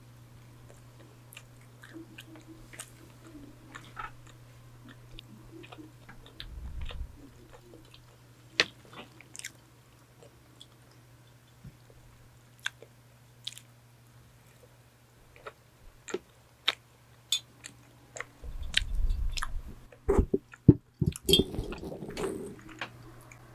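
Close-miked biting and chewing of a doughnut: scattered soft, wet mouth clicks that get louder and denser near the end. Under it runs the steady low hum of an electric fan.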